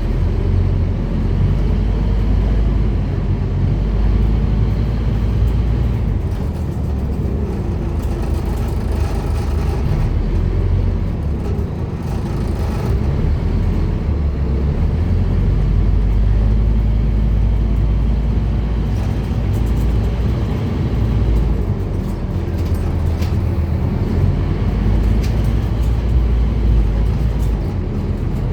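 Scania N230UD double-decker bus's five-cylinder diesel engine running steadily, with a low rumble that swells and eases as it drives.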